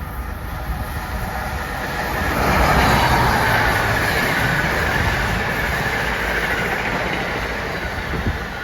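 A train passing through the station at speed: a rushing rail roar that swells about two seconds in, stays loud, and eases off near the end.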